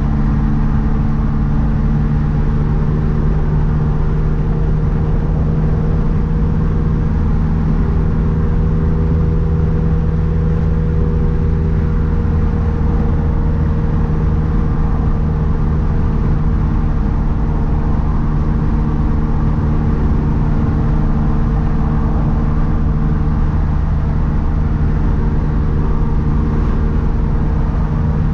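Big-turbo 2012 Mazdaspeed 3's turbocharged 2.3-litre four-cylinder running at a steady engine speed while driving, a level drone that neither rises nor falls.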